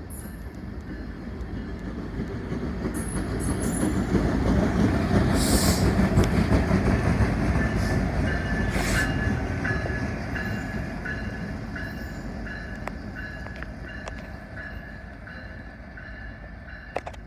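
A train passing, its rumble building to its loudest about five to seven seconds in and then fading away, with a high, regularly pulsing tone through the second half.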